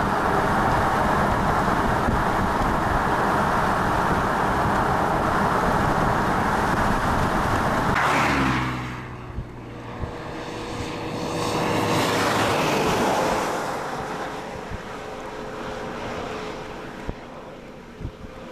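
Road and engine noise of a moving vehicle, steady and loud at first; about eight seconds in it falls away with a dropping engine pitch as the vehicle slows, swells briefly again a few seconds later, then stays lower with a few light knocks near the end.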